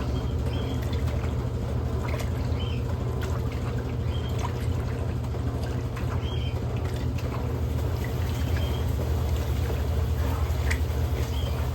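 Electrolux LM08A top-load washing machine running mid-cycle with towels in water: a steady low motor hum under continuous pouring and sloshing water.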